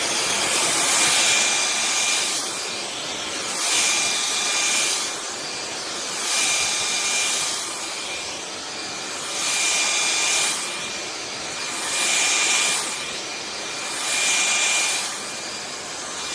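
INTETURE cordless stick vacuum running with a steady high whine, its rushing hiss swelling about every two to two and a half seconds, six times, as it sweeps up small scattered debris.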